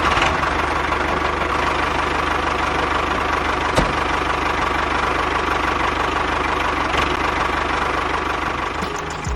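A small engine idling steadily with a rapid, even beat, and a single sharp click a little under 4 seconds in.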